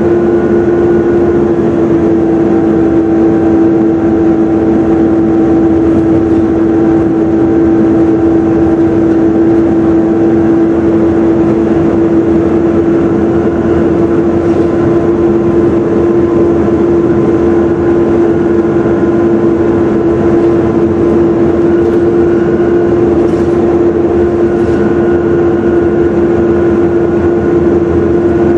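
Volvo B7TL double-decker bus heard from on board, running with a loud, steady vacuum-cleaner-like whine (the "mega hoover") held at one pitch over the engine and road rumble.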